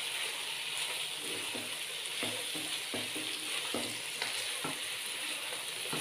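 Mutton pieces and oily masala sizzling in a non-stick wok while a silicone spatula stirs them, with a steady frying hiss and a short scraping stroke of the spatula every half second or so.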